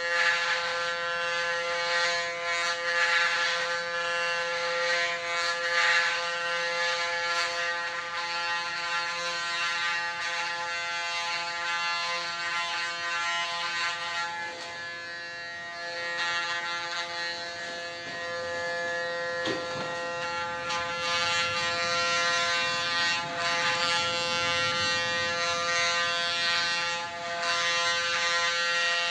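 Electric hair clippers set to 0.8 mm buzzing steadily while shaving a head down to a buzz cut, the hum swelling and dipping slightly as the blades pass through the hair.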